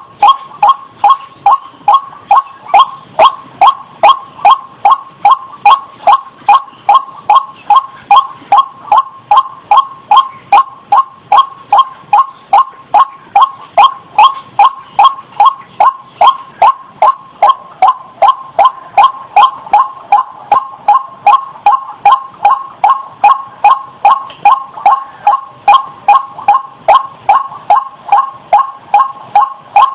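White-breasted waterhen calling: a steady, unbroken run of short, sharp notes, nearly three a second, repeated over and over.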